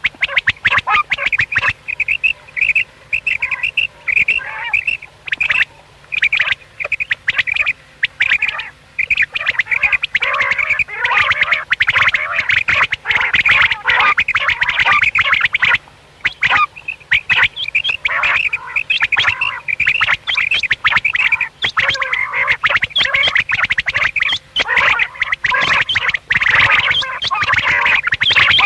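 Common quails calling, a dense run of short, rapidly repeated calls that overlap almost without a break.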